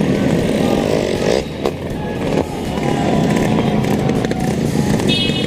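Motorcycle engines running with a steady, dense rumble.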